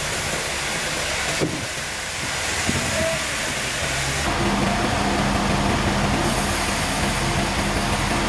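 Industrial machinery running: a steady rushing noise with a sharp click about one and a half seconds in. About four seconds in it changes to a steadier, lower machine hum.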